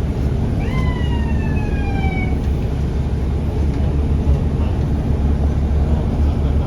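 Steady low rumble of a moving transit vehicle. About a second in, a single whistling tone with overtones rises sharply, then slides slowly down in pitch for under two seconds before fading.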